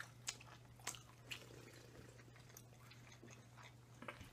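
Near silence with faint mouth sounds of chewing: a few soft clicks in the first second and a half, over a low steady hum.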